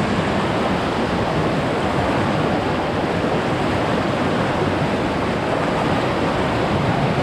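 Orange River floodwater rushing past the bridge pillars: a loud, steady rush of fast-flowing water.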